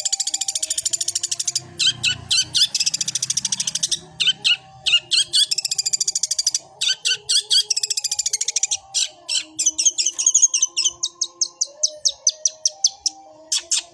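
Long-tailed shrike (cendet) singing a fast, harsh chattering song of rapid chirps, mimicking sparrow calls. The song comes in several long runs broken by brief pauses.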